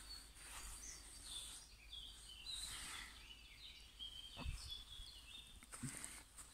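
Faint birdsong: a bird sings a run of short, clear notes that step up and down in pitch. There is a soft thump about four and a half seconds in.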